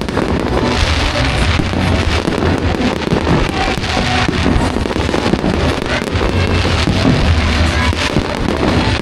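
Fireworks display going off continuously with dense crackling over a low rumble, with music playing alongside.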